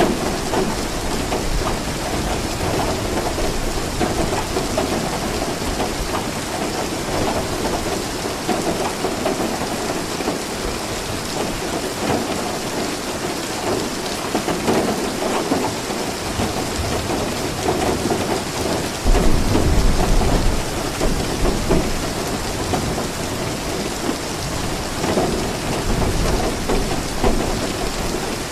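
Steady rain with thunder rumbling low underneath; a louder roll of thunder sets in suddenly about two-thirds of the way through.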